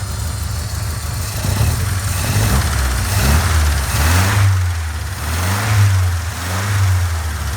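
A 1967 barn-find car engine running, with a few short blips of the throttle around the middle that raise and drop its note, between spells of steady idle.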